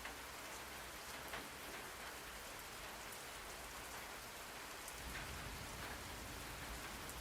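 Steady rain falling on a surface, an even hiss with scattered individual drops tapping.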